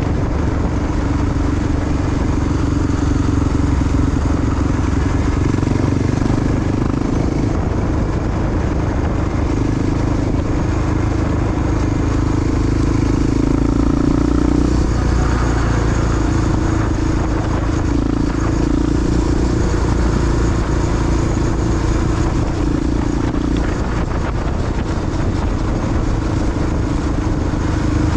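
Big single-cylinder four-stroke Honda XR dual-sport motorcycle engine running under way, its pitch stepping up and down several times as the throttle and gears change.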